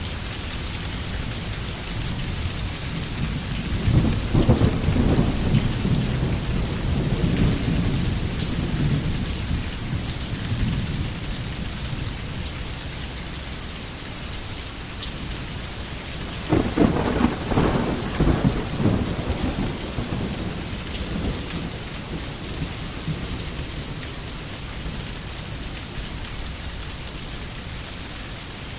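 Steady rain falling in a forest, with two rolls of thunder: a long low rumble starting about four seconds in, and a second, sharper one about halfway through.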